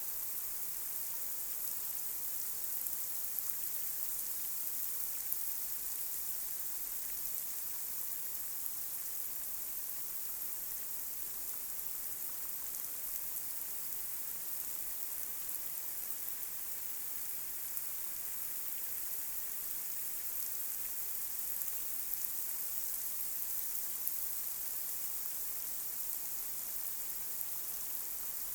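Light rain falling on a street: a steady high hiss with an occasional louder drop.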